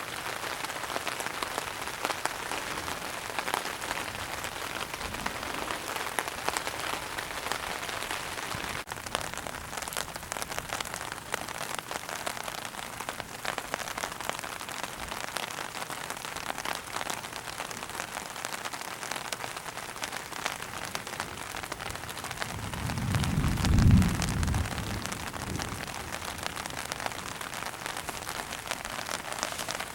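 Steady rain falling and pattering on surfaces, a dense hiss of many small drop impacts. About three-quarters of the way through, a low rumble swells up, becomes the loudest sound, then fades away.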